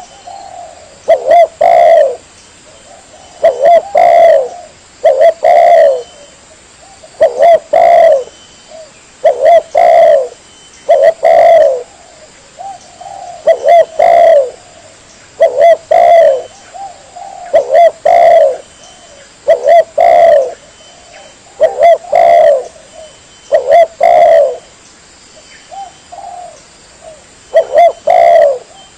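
Spotted dove (tekukur) cooing over and over, a short phrase of coos about every two seconds. It is a lure call used to draw in spotted doves.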